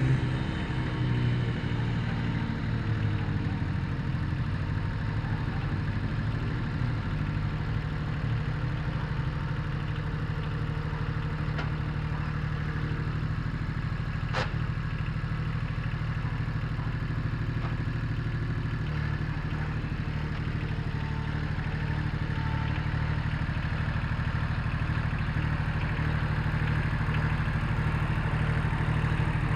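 Satoh Mitsubishi compact tractor's engine running steadily while the tractor works a small disc through the dirt, with a single sharp click about halfway through.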